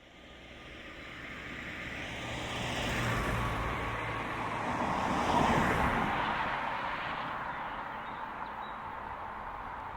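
A vehicle passing by, swelling to its loudest about halfway through and then slowly fading away.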